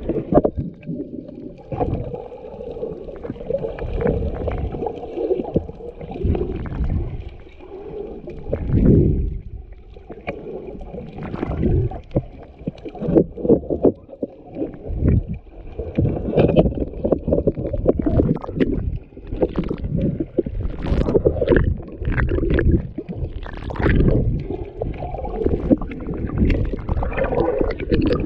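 Muffled water sloshing and gurgling, with irregular surges and knocks.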